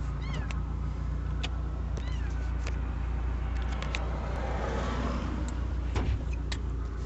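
A cat meowing twice, short calls that rise and fall, near the start and about two seconds in, over the steady low hum of an idling car engine. Scattered sharp clicks are heard throughout.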